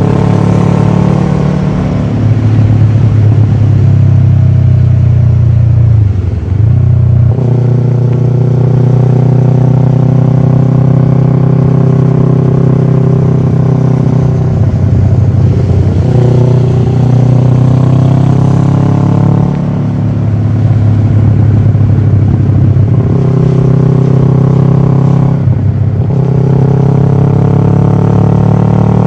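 Kawasaki ER-6f's parallel-twin engine running through a full Akrapovic exhaust at steady riding revs, with a few brief dips and shifts in the engine note, as on gear changes.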